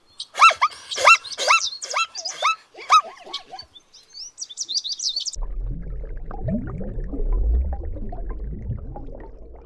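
Zebra calling: a run of loud yelping barks, about two a second, that tail off after about three seconds, followed by a few high chirps. After about five seconds a steady low rumbling noise takes over.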